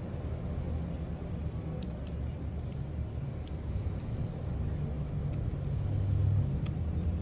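Low, steady rumble of passing street traffic, with a few faint clicks.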